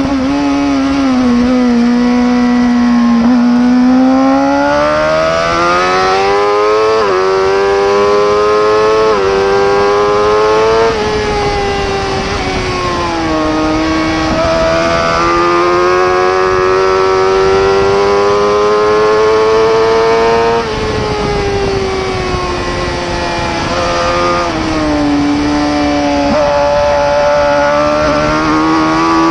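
Racing superbike engine under hard acceleration, its pitch climbing and dropping sharply at each upshift, about 7, 9 and 11 seconds in. It falls away under braking and rises again out of the corners.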